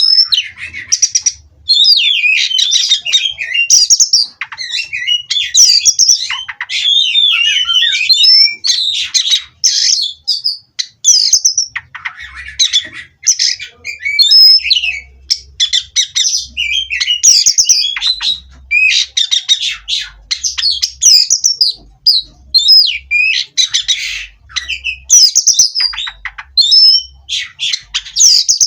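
Oriental magpie-robin (kacer) singing a loud, varied song of rapid whistles, trills and sharp chirps, in quick phrases with short breaks between them.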